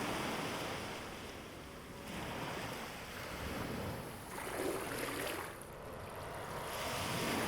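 Ocean waves washing onto a shore, the surf swelling and fading in repeated surges.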